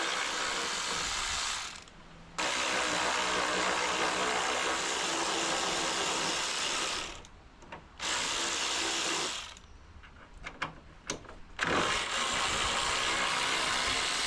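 A power tool undoing bolts, run in four stretches of a few seconds each with short stops between them, and a few sharp clicks in one stop.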